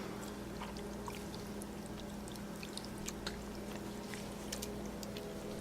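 Faint wet ticking and crackling of sticky slime dripping and pulling apart, over a steady low hum.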